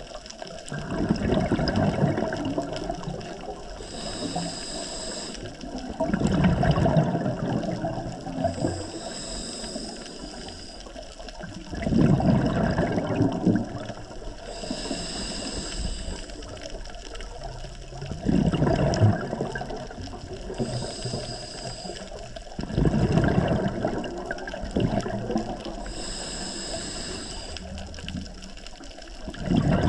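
Scuba diver breathing underwater through a regulator: a loud rush of exhaled bubbles about every five to six seconds, five times. Between the bubble bursts comes a thinner, higher hiss as the regulator supplies air on the inhale.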